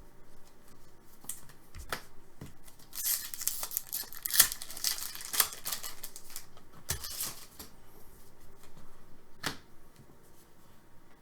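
Trading cards being handled and slid against each other: a run of rustles and small clicks, busiest from about three to five and a half seconds in, with single sharper clicks near seven and nine and a half seconds.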